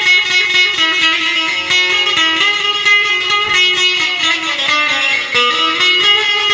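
Instrumental music led by an amplified plucked string instrument playing a melody of quickly changing notes, without singing.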